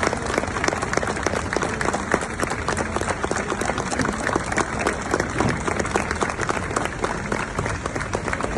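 Crowd applauding: many people clapping together in a long, sustained round of applause.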